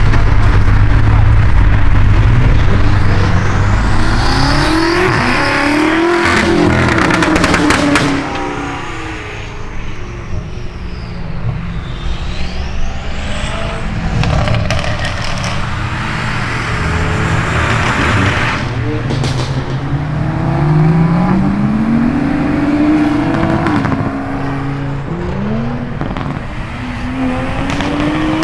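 Car engines running loud and revving up as cars drive past, the engine pitch rising several times as they accelerate; loudest for the first eight seconds, then quieter with further rising revs around the middle and near the end.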